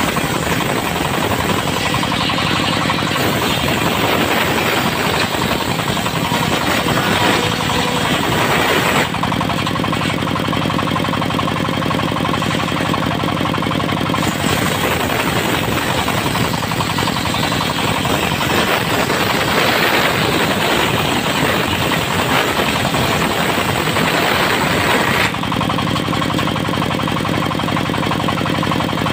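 Diesel-driven portable circular sawmill running steadily, its blade ripping through teak in two long cuts: the first stops abruptly about nine seconds in, the second starts around fourteen seconds and stops near twenty-five seconds, with the engine running on alone between and after.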